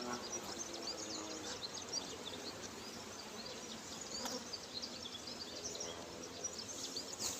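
Honeybees buzzing around an opened hive, a steady hum of many bees with individual bees flying close, and a light knock about four seconds in.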